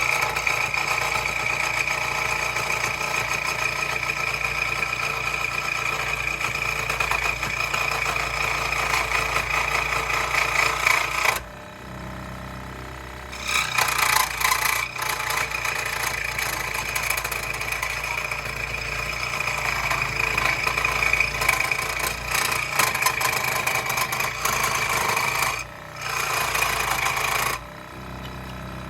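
Power saw cutting wood, its motor running steadily with a high whine. The cutting noise drops away twice for a couple of seconds while the motor keeps running.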